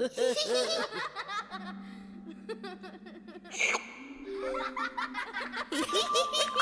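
Cartoon characters giggling and laughing in quick runs, with a few short held musical notes and a brief sharp sound effect about halfway through.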